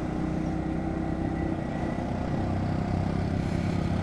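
Bajaj Pulsar NS125's single-cylinder engine running steadily while the motorcycle is ridden, the engine note rising slightly in the second half.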